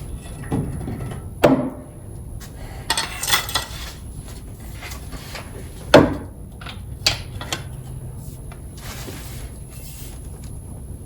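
Steel hand tools clinking and clanking as a socket extension and breaker bar are handled and fitted together, a few sharp metallic knocks with the loudest about six seconds in.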